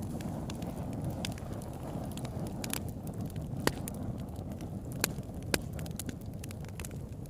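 Campfire burning: a steady low rush of flames with sharp irregular crackles and pops of burning wood, a few louder snaps standing out.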